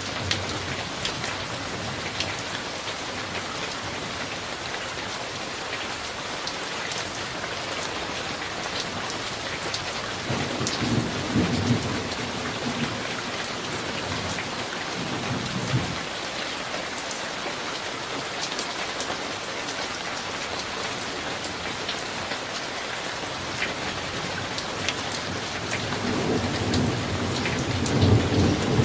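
Summer thunderstorm: steady rain falling, with scattered drops ticking close by. Thunder rolls in low about a third of the way through, rumbling for several seconds, and a second peal builds near the end.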